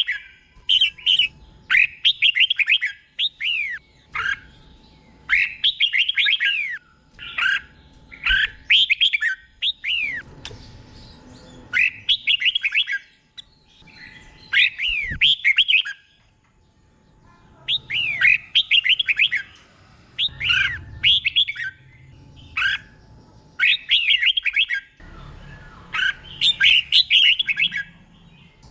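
Red-whiskered bulbul singing: short phrases of quick, rising and falling whistled notes, repeated again and again with brief gaps.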